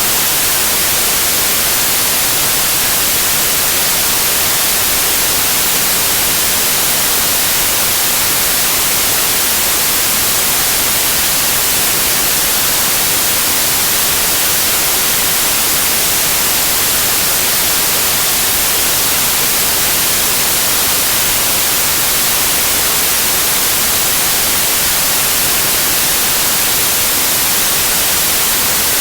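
Steady white noise like TV static: an even hiss, strongest in the highs, with no change.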